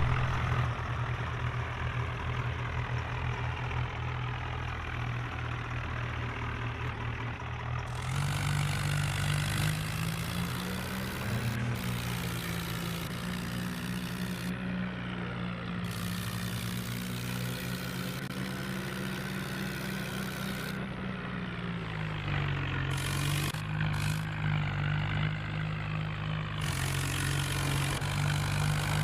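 Tractor engine running steadily, its pitch rising about eight seconds in, holding higher, then easing down around twenty-two seconds.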